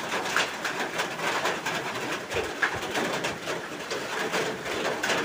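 Heavy rain falling steadily, a constant hiss full of small patters, with a bird cooing now and then.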